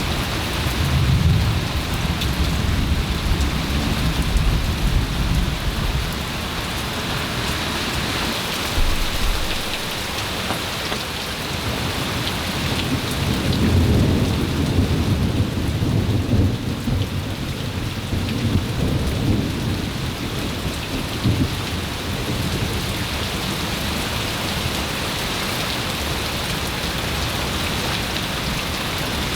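Steady heavy rain falling, with thunder rumbling low underneath: one rolling rumble in the first few seconds and a longer one through the middle.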